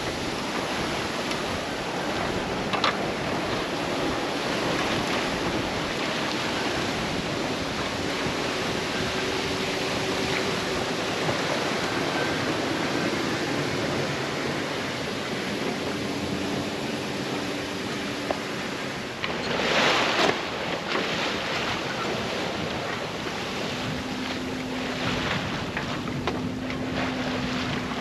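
Sea rushing and splashing past a sailboat's hull running dead downwind in about 25 knots of wind, with wind buffeting the microphone. A louder splash about twenty seconds in.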